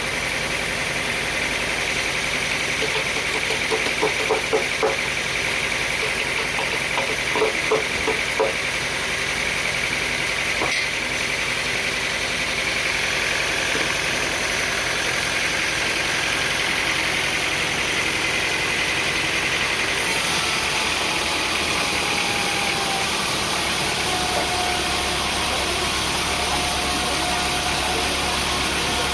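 An engine running steadily, with two short bursts of knocking about four and seven seconds in.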